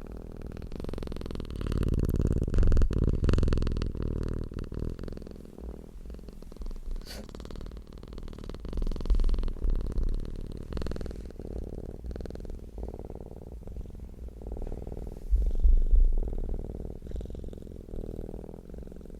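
A domestic cat purring close to the microphone: a low, continuous purr that swells louder and softer in waves, loudest about two to four seconds in and again around nine and sixteen seconds.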